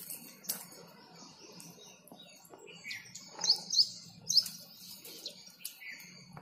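Small birds chirping in the background, with short high calls scattered throughout and three loud, quick, falling chirps a little past halfway. A few sharp clicks come in between.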